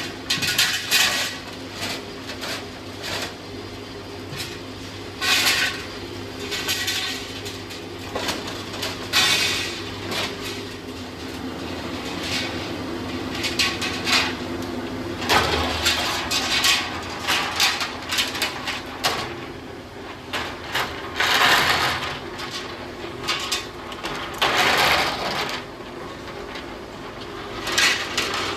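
Factory machinery: a steady hum with irregular short noisy bursts every few seconds.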